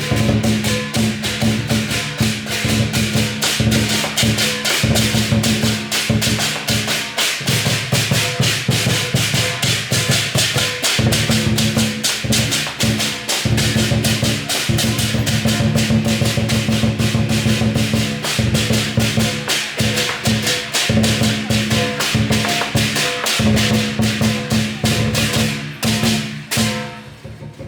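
Chinese lion dance percussion: drum and clashing cymbals played in a fast, dense rhythm, dropping off briefly near the end and starting again.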